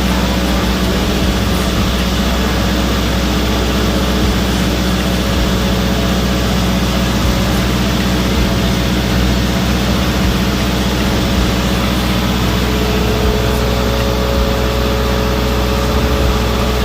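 A generator set's engine running steadily at a constant speed, with an even low hum and no change in pitch.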